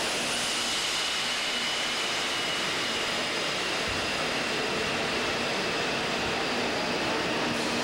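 ICE high-speed train, heard from outside: a steady rushing noise with faint high whines that slowly drop in pitch, and a faint rising whine near the end.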